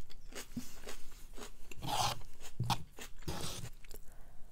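Close-miked eating: chewing of a noodle salad with irregular rasping, crunchy scrapes, the loudest about two and three and a half seconds in.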